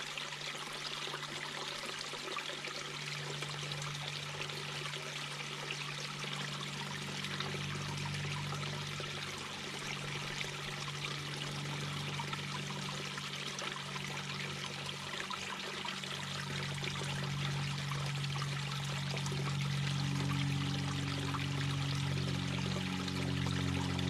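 Mountain brook babbling, a steady rush and trickle of water over stones. Under it sit low, steady tones that swell in the second half.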